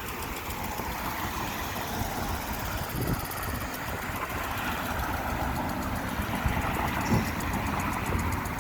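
Steady hiss of Hunter PGP gear-driven rotor sprinklers spraying water across the lawn, over a low rumble.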